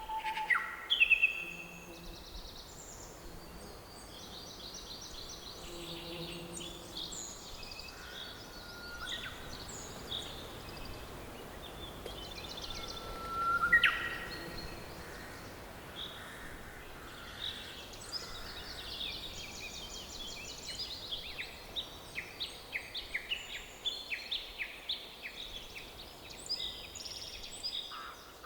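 Forest birdsong: several birds calling and singing at once, short chirps, whistled notes and fast trills over a faint steady background hiss, with one loud rising whistle about halfway through.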